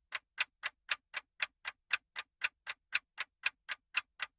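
Clock-ticking sound effect serving as a quiz countdown timer: short, even ticks, about four a second, marking the time left to answer.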